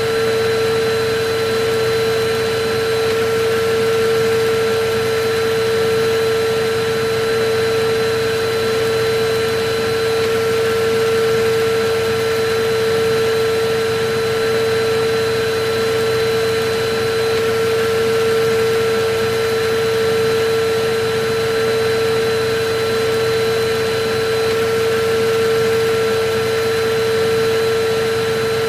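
Electric vacuum cleaner running steadily: a constant motor whine over a rushing of air, its level swelling and easing slightly.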